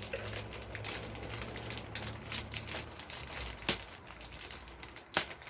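A bird seed package being worked open by hand: crinkling and rustling of the packaging with scattered clicks. There are two sharper snaps, a little past halfway and near the end.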